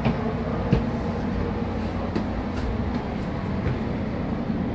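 Steady low rumble inside an Amtrak passenger rail car, with a few light clicks and knocks.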